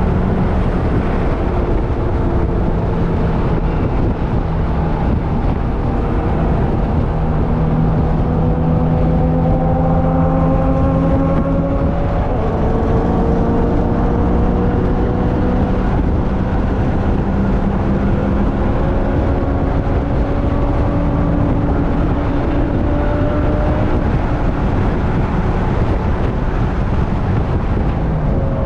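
Onboard sound of a vehicle at speed on a race track: the engine note climbs slowly under heavy wind and road noise, drops once about twelve seconds in, then climbs again.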